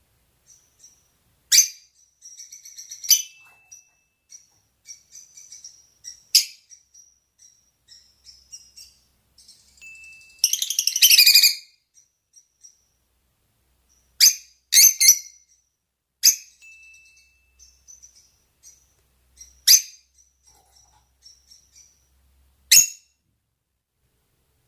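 Rosy-faced and Fischer's lovebirds calling to each other in mating calls. Sharp, loud shrieks come every second or few over a soft, continual twittering, with a longer harsh chattering burst about ten seconds in.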